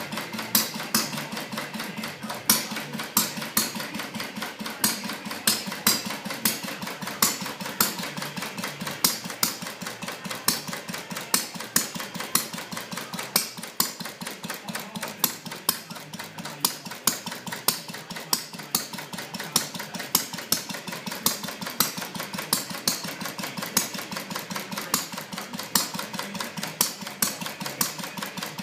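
Edgar Westbury–design Centaur model engine running on its first run: a fast, slightly uneven train of sharp ticking beats, several a second, with stronger beats standing out every half second or so.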